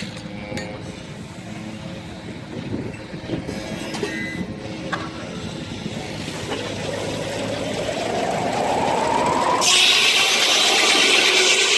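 Steam-engine-driven sawmill running. Over a few seconds a whine rises steadily in pitch, then a loud hissing rush starts suddenly about ten seconds in.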